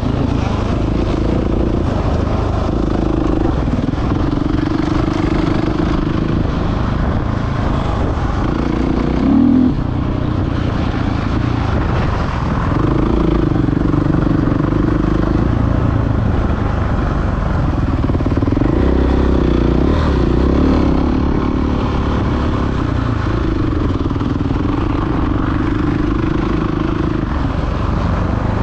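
Motocross dirt bike engine revving up and down as it is ridden, the throttle opening and closing every few seconds, with clatter and rough noise from the ride underneath.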